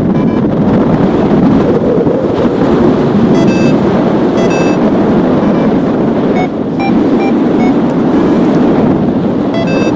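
Strong wind buffeting the microphone during paraglider flight, a loud steady rush. A paragliding variometer beeps in short runs of quick tones over it, several times.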